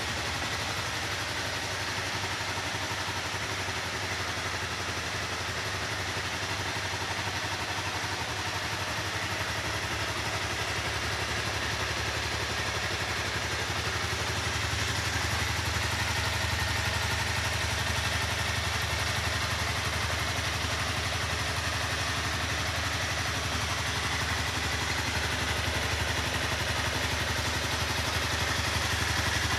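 Honda CBR250R's single-cylinder engine running steadily at idle, getting a little louder about halfway through.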